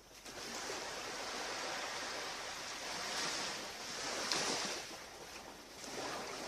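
Surf washing on a beach: an even rush of noise that swells and eases, with surges about three and four seconds in and again near the end.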